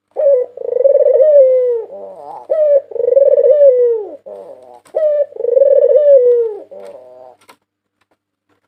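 White Barbary dove (puter putih) cooing: three repeated phrases about two and a half seconds apart. Each is a short opening note, then a long rolling coo that drops in pitch at its end, then softer broken notes.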